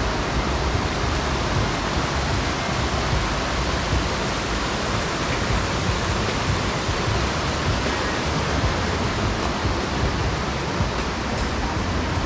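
Waterfall: a steady, dense rush of water falling onto rocks, unchanging throughout.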